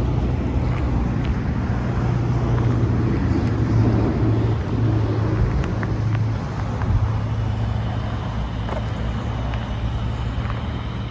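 Steady road traffic noise with a low hum, swelling a little partway through and then easing off.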